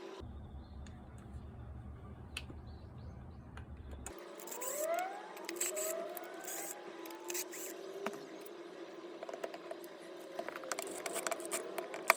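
Low hum for about the first four seconds, then scattered clicks and light metal rattling of small tool parts being handled, with a few short rising squeaks.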